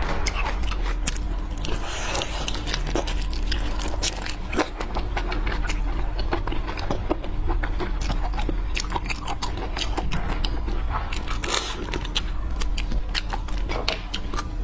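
Close-miked ASMR eating sounds of seafood being bitten and chewed: a dense, irregular run of wet clicks and crunches over a steady low hum.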